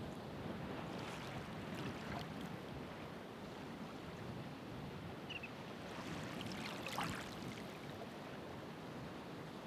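Ocean waves washing on the shore: a steady wash of surf, with the splash and fizz of breaking water swelling about a second in and again around seven seconds in.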